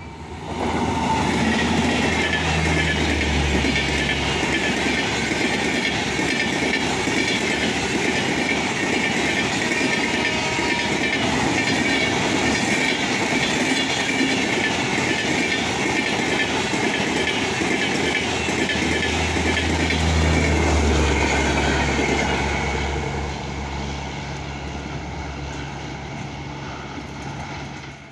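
Express train hauled by a WAG-9HC electric locomotive passing close by at speed: a loud, continuous rush of steel wheels on rail with clickety-clack as the coaches go by. It eases off somewhat in the last few seconds.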